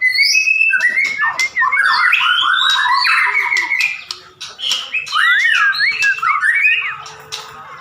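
White-rumped shama (murai batu) singing a fast, varied song of gliding whistles and chattering notes with sharp clicks, turning to a run of rising-and-falling whistled notes in the second half.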